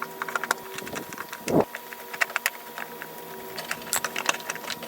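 Flathead screwdriver working the screws of a generator's plastic air filter cover: a run of small irregular clicks and ticks of metal on plastic, with a louder thump about a second and a half in.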